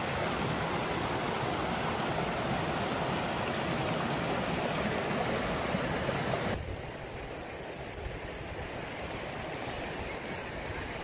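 River water rushing over rocks as a steady, full noise. About two-thirds of the way through it drops suddenly to a quieter, duller rush, with a few faint ticks near the end.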